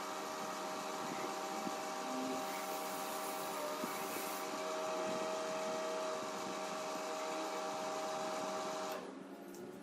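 Microwave oven running: a steady electrical hum with several fixed tones over a fan whir, cutting off about nine seconds in.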